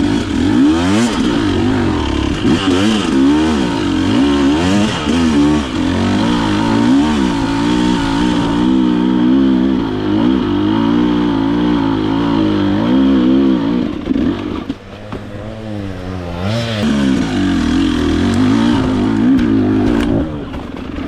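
Enduro motorcycle engine revving up and down as the throttle is worked on the trail, easing off to a lower, quieter run for a moment about two-thirds through before pulling hard again.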